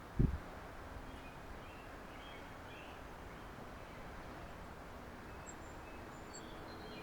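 Steady outdoor background noise with a few faint, short bird chirps, and one brief low thump just after the start.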